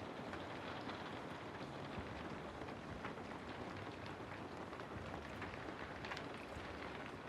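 Steady rain falling through trees, a constant patter with individual drops ticking here and there.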